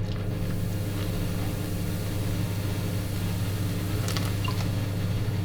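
Fizzy Lucozade being poured into dry cake-mix powder, hissing and fizzing as the mix foams up, with a few faint clicks about four seconds in, over a steady low hum.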